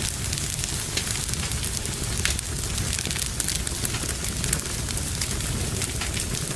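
Wood fire burning in a fireplace, crackling: a steady low rumble of flames with frequent, irregular sharp pops and snaps from the burning logs.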